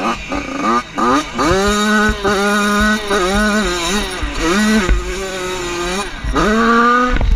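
Motorcycle engine revving hard: the pitch climbs and is held high with small throttle wobbles, dips briefly about five seconds in, then rises again.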